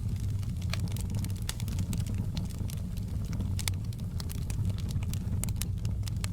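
Campfire burning with frequent sharp, irregular crackles and pops over a low, steady rumble.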